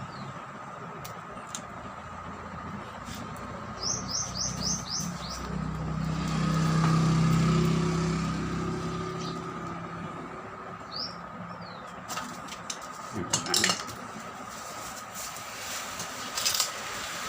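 A vehicle passes by, its low hum swelling and fading in the middle. A small bird chirps in two quick series of falling notes, and a few sharp knocks come near the end.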